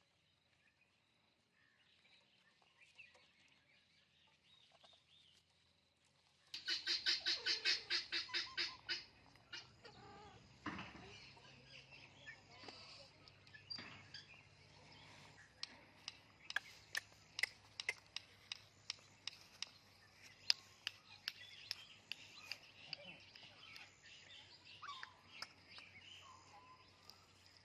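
Indian ringneck parrot making clicking sounds. About seven seconds in comes a loud run of rapid, evenly repeated calls. After that, sharp irregular clicks go on, one or two a second.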